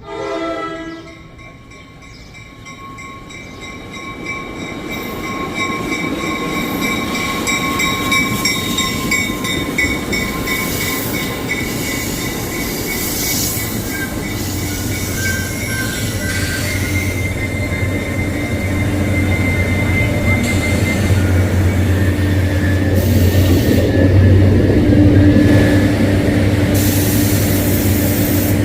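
Train approaching and running through the station, its rumble building steadily, with a horn sounding at the start and brief wheel squeals in the middle. A low steady drone grows louder in the second half.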